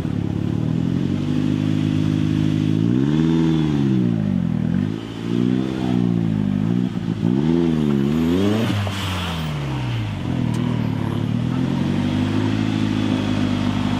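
Off-road vehicle's engine revving up and down several times in quick swings, then running steadily before climbing again near the end.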